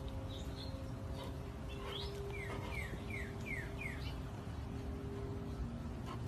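Birds chirping: scattered short high chirps, then a run of five quick falling chirps about two seconds in, over a faint steady hum.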